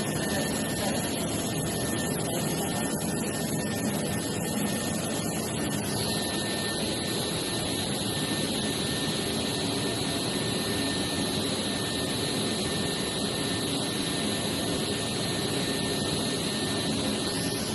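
Workshop machinery running with a steady whirring drone and a faint high whistle. About six seconds in, a higher steady whine joins and holds until just before the end.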